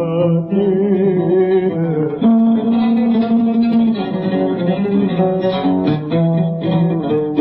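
Oud playing a plucked melody in Egyptian classical tarab style, with the treble cut off as on an old recording.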